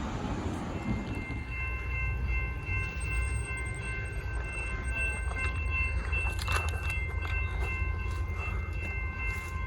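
Level crossing bells start ringing about a second in, a steady rapid ding of several tones, over a low rumble of passing traffic.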